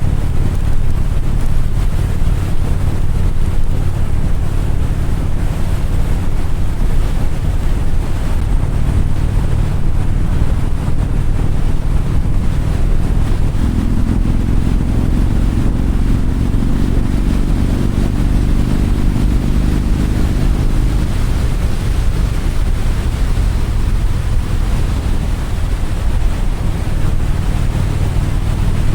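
Motorcycle engine running steadily at road speed under heavy wind noise on the microphone. For several seconds in the middle a second, higher steady drone joins in.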